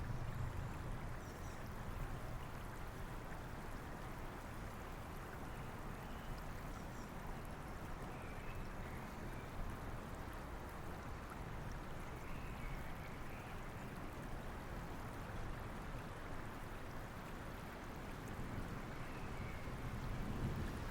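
Steady rushing of a flowing river mixed with rain, with a low rumble of distant thunder at the start and again near the end.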